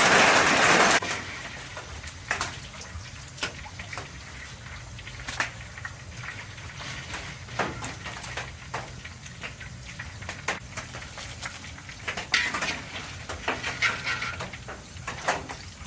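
Kitchen cooking sounds: a loud hiss for about the first second that cuts off suddenly, then scattered clinks and knocks of utensils against pans and dishes over a low steady hum.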